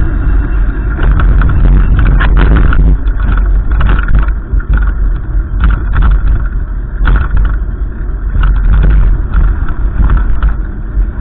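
Gusty wind buffeting the microphone: a loud low rumble that swells and drops with each gust.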